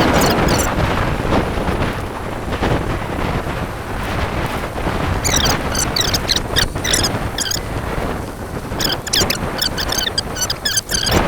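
Wind buffeting the microphone while riding an e-bike in a brisk, gusty wind, a steady rushing rumble. Two runs of short high-pitched chirps come through it, one about halfway through and one near the end.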